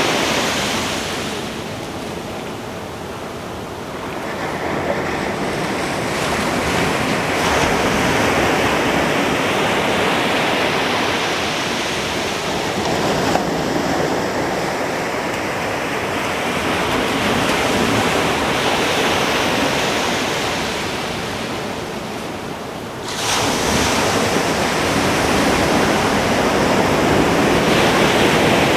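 Ocean surf breaking on a beach: a steady wash of waves that swells and ebbs, with a sudden louder surge about five seconds before the end.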